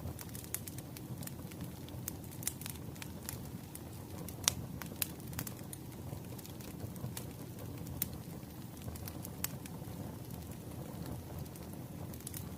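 Wood fire crackling: irregular sharp pops and snaps over a steady low rumble of burning logs. The loudest pop comes about four and a half seconds in.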